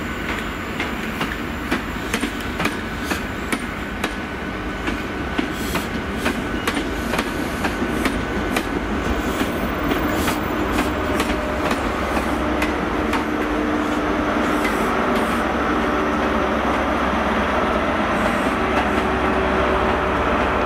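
HST train rolling past on the adjacent track, its wheels clicking over rail joints and pointwork, with a steady diesel engine hum that grows louder toward the end as the Class 43 power car draws near.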